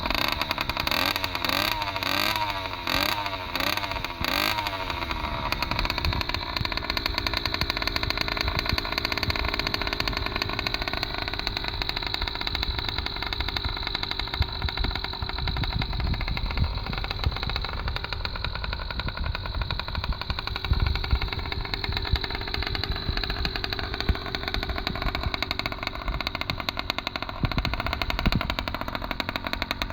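66cc two-stroke motorized-bicycle engine breathing through an unbaffled Thrust Racing expansion-chamber muffler: several quick rev blips in the first few seconds, then running steadily with slight rises and falls in pitch.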